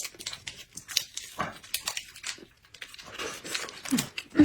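Close-up eating sounds: chewing, with many small wet mouth clicks and smacks. A short low hum of the voice comes near the end.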